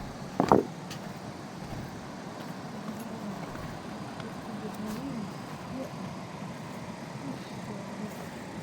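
Steady rushing of a fast mountain river, with two sharp knocks about half a second in.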